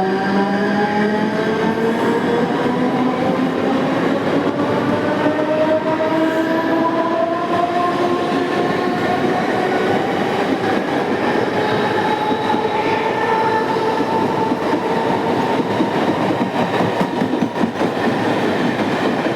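Mumbai suburban electric local train pulling away. Its traction motor whine rises steadily in pitch for about ten seconds as it picks up speed, then holds steady over the clatter of wheels on the rails.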